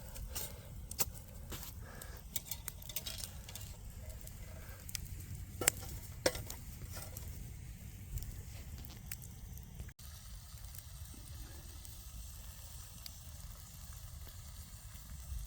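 Chorizo, wine and noodles sizzling in a Dutch oven, with sharp crackles and pops over the first seven seconds or so, then a steadier, quieter sizzle.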